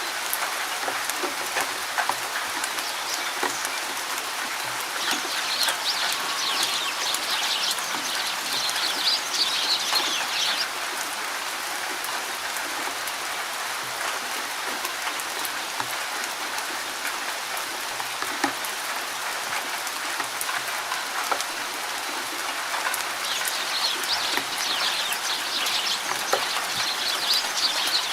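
Steady rain pattering in a forest, with individual drops ticking. Birds chirp in rapid runs twice, once for several seconds early on and again near the end.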